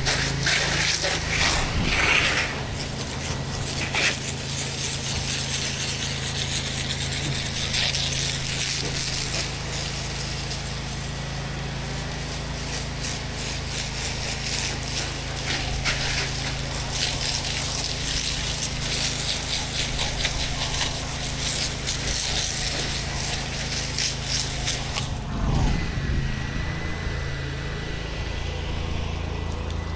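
Pressure washer engine running steadily under a loud, hissing high-pressure water spray with a rattling clatter. The spray cuts off about 25 seconds in while the engine keeps running.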